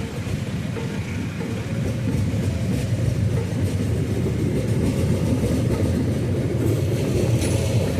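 Train running on the rails: a steady low rumble that grows a little louder about two seconds in, with a few faint clicks near the end.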